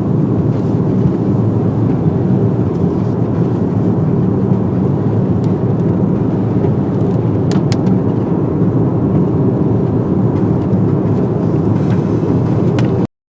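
Steady road and engine noise inside a moving car's cabin, with a few faint ticks, cutting off suddenly near the end.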